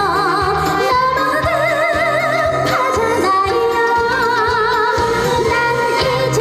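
Live trot music: a female voice singing with vibrato over a backing track with a steady beat.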